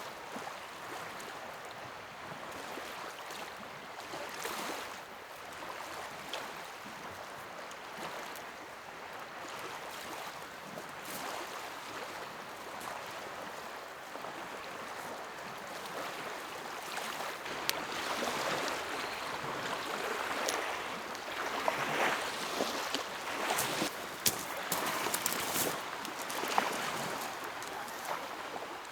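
Small lake waves lapping and splashing against the shore as a steady wash. The sound gets louder and choppier about two-thirds of the way through, with scattered sharp clicks and splashes.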